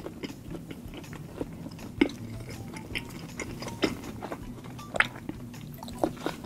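Close-miked chewing of a fried mantou bun, with wet mouth clicks and a few sharper clicks about two, four, five and six seconds in.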